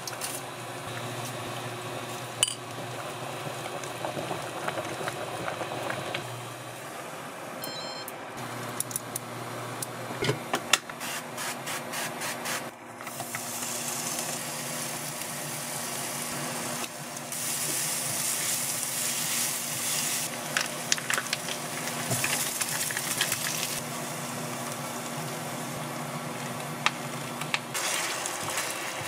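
Sliced onion frying in oil in a frying pan: a sizzle that sets in about halfway through and eases near the end, after a run of clicks and taps of utensils on the pan. A low steady hum runs underneath.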